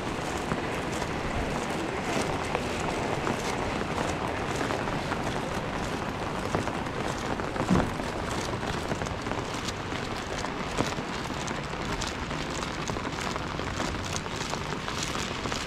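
Steady rain falling, with many small drop ticks through it and one short louder thump about eight seconds in.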